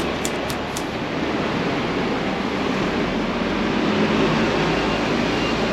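Steady rumble and noise of a vehicle in motion, with three quick light ticks in the first second.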